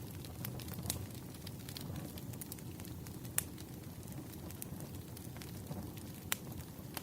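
Wood campfire burning with a steady low rush and scattered sharp crackles and pops, the loudest pops about three and a half seconds in and near the end.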